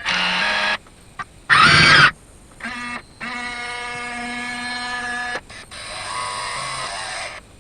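Electric motors of a Huina 1580 RC excavator running in short bursts as its remote controls are worked, each burst starting and stopping abruptly. The loudest burst is a brief one about a second and a half in, and the longest is a steady whine of about two seconds in the middle.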